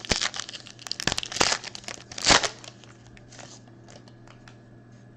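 A basketball card pack's wrapper being torn open and crumpled, with crackling and crinkling over the first couple of seconds and the loudest rip a little after two seconds in. It then falls to a few faint clicks.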